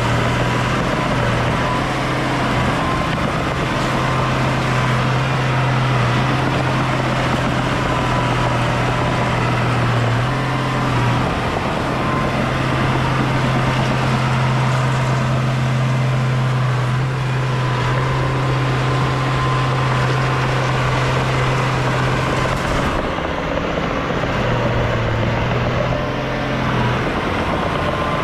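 Heavy diesel earthmoving machinery running steadily, a constant deep engine drone over a wide mechanical noise; the drone dips briefly twice, about eleven seconds in and again a little after twenty-two seconds.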